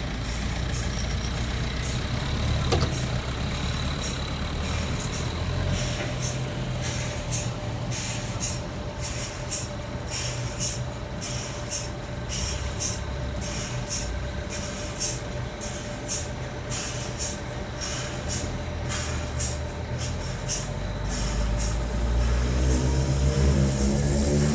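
Sawmill machinery running with a steady low hum and a steady whine. Near the end an engine revs up, rising in pitch.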